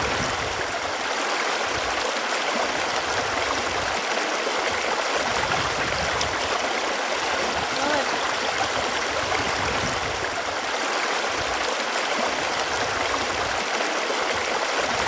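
Running water flowing steadily, an even rush that does not change.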